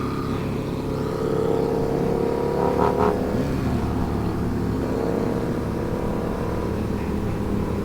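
Sportbike engine running at a steady, held engine speed while riding, over a low rumble; the engine note briefly drops away a little past three seconds in, then returns at a steady pitch.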